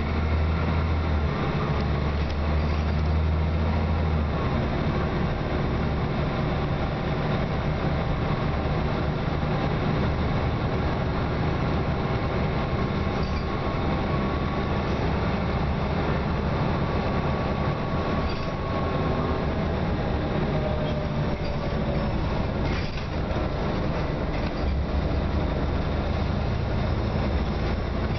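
Scania OmniCity single-deck bus running, its diesel engine giving a steady low drone that is strongest at the start and again near the end, with a faint whine through the middle and a few light rattles.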